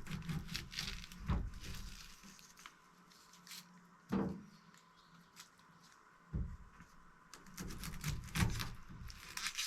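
A knife working on an onion, cutting and peeling it: scattered knocks and short scrapes, with two sharper thumps about four and six seconds in.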